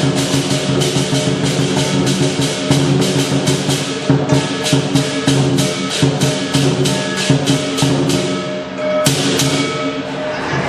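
Lion dance percussion: drum, cymbals and gong beating a fast, steady rhythm of about four clashes a second. Near the end it breaks off with one last clash left ringing.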